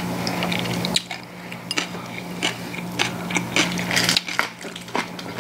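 Close-up eating sounds: crunching and chewing on a wrap of fresh napa cabbage leaf filled with kimchi seasoning, heard as a run of short, crisp clicks and crunches.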